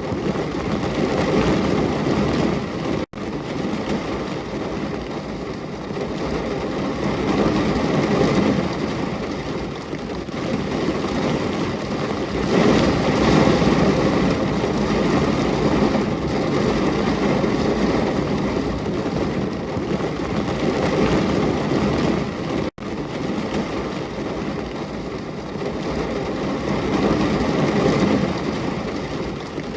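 Steady heavy rain as a continuous dense rushing noise weighted toward the low end. It cuts out for an instant twice, about three seconds in and again about twenty-three seconds in.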